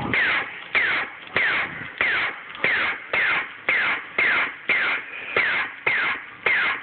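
Laser tag blaster firing over and over, each shot an electronic zap with a falling pitch, about two shots a second.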